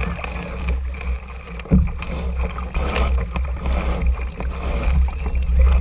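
Water washing and splashing against a small sailing dinghy's hull in repeated hissing surges, over a steady low rumble of wind on the microphone, with one sharp knock about two seconds in.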